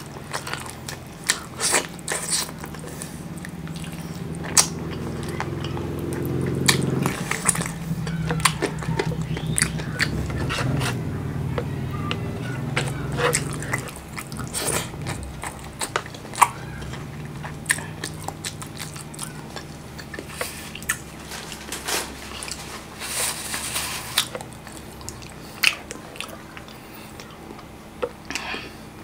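Close-miked chewing of chicken in a thick tomato-chilli sauce: wet mouth clicks and smacks, with occasional sharper crunches. A fuller, denser chewing sound runs through about the first half.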